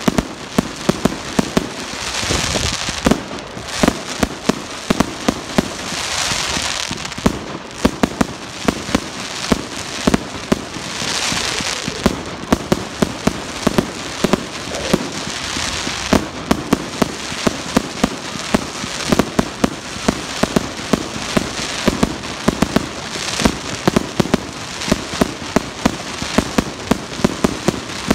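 Fireworks display: a rapid, continuous barrage of sharp bangs and cracks, with several loud hissing rushes a few seconds apart.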